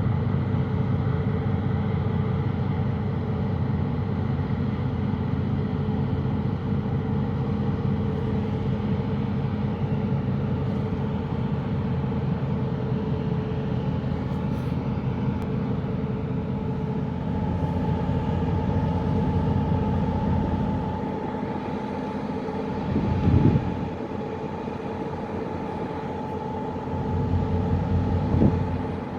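Tugboat's diesel engines droning steadily with a deep hum while hauling a disabled 700-foot freighter under tow. The low rumble drops away for a few seconds about two-thirds of the way through, broken by a brief louder swell, then returns near the end.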